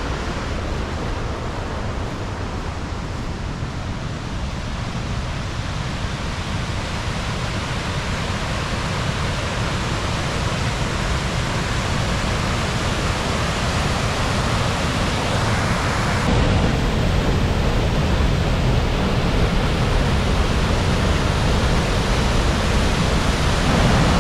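The River Tees in spate, swollen with snowmelt, rushing over rocks as a steady wash of white water. It grows a little louder and steps up about sixteen seconds in.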